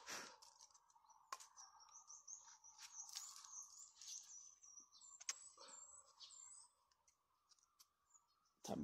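Faint high twittering of small birds, with a few light clicks and rustles from handling, over a faint steady hum.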